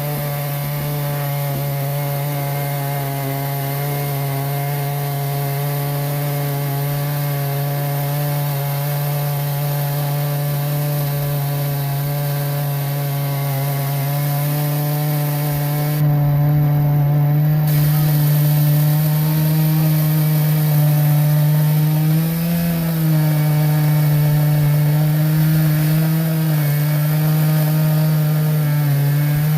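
Vintage engine-driven saw running at a steady pitch while cutting timber. It gets louder about halfway through, and the engine note wavers briefly a few seconds later as it takes the load.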